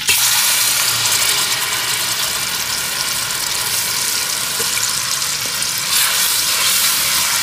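Wet ground garlic, ginger and onion paste hitting hot ghee, setting off a sudden loud sizzle that carries on as a steady frying hiss. A wooden spoon stirs it near the end.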